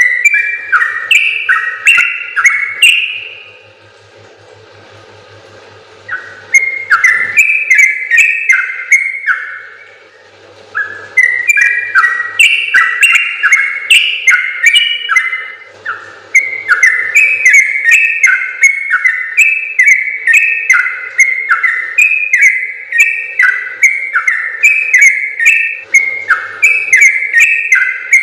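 Yellow-vented bulbul (trucukan) singing a long, fast string of clear whistled notes that step up and down in pitch. The song breaks off about three seconds in, resumes near six and a half seconds, pauses briefly around ten seconds, then runs on unbroken.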